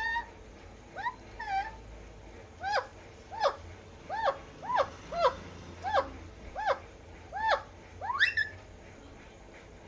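Alexandrine parrot calling: a run of about a dozen short, arching squawks, each rising and falling in pitch, roughly one every half second to second, after a longer rising call at the start.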